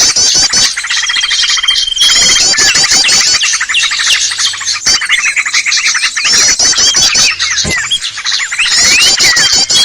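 A dense, loud chorus of many small songbirds calling at once: fast repeated trills, sharp chirps and sliding whistles overlapping without a break, with one held whistle note about a second in. It is a bird-lure (pikat) recording of agitated small-bird chatter, used to draw wild small birds in.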